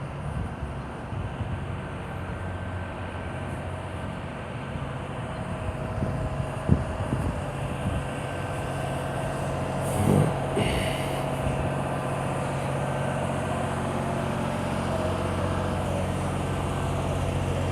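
A vehicle engine idling steadily, with a sharp knock about seven seconds in and a short thump and hiss about ten seconds in.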